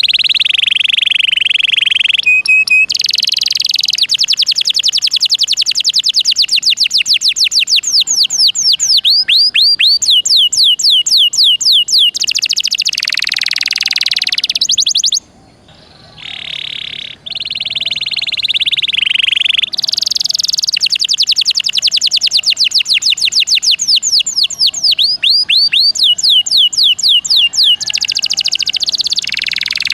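Domestic canary in full, nonstop song: long phrases of rapid trills and fast repeated downward-sweeping notes, high-pitched. There is a short break about halfway through, and the song quickly resumes.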